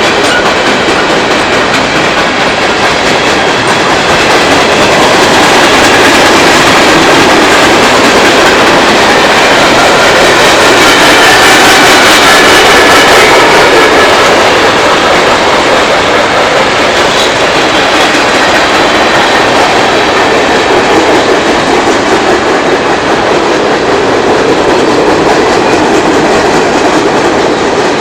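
Freight cars of a Norfolk Southern coil train rolling past, a steady loud rumble and rattle of steel wheels on the rails, with a faint high squeal around the middle.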